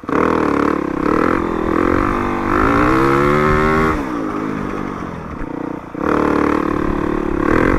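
Dirt bike engine revving as it is ridden: the pitch climbs under throttle from about two and a half seconds in, falls away sharply near four seconds as the throttle is rolled off, and picks up again about six seconds in.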